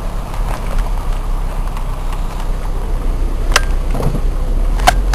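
Car engine and road rumble heard from inside the car, a steady low drone, with a couple of sharp clicks about three and a half and five seconds in.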